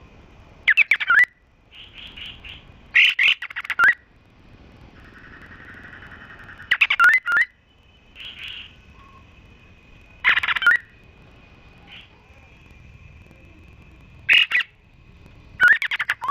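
Songbird calls from a cililin, canary and kapas tembak training mix: short bursts of sharp chirps and quick downslurred whistles every couple of seconds over a faint, steady high whistle. A lower buzzy trill comes in near the middle.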